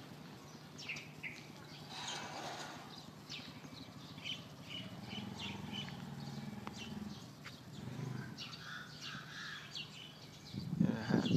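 Birds chirping repeatedly in short high calls, with a faint low hum in the middle and a louder low rumble near the end.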